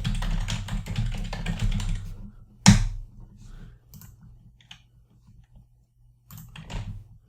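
Typing on a computer keyboard: a rapid run of keystrokes for about two seconds, then one louder click, a few scattered taps and another short flurry of keys near the end.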